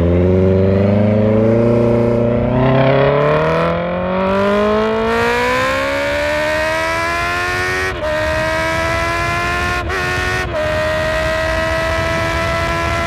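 Honda CB650F's inline-four engine accelerating, its pitch climbing steadily for about eight seconds, then three brief dips before it holds a steady pitch.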